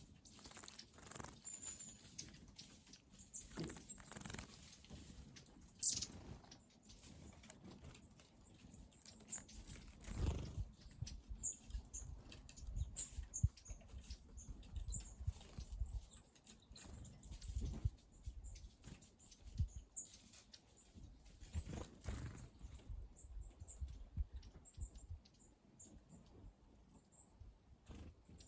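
Small wild birds bathing in a shallow garden bird bath: faint, irregular light splashing and flutters, with many brief high chirps and a few low rumbles.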